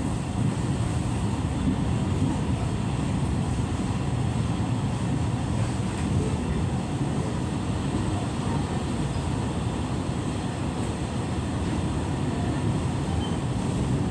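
Steady rumble of a moving passenger train heard from inside the carriage, with a faint steady high whine above it.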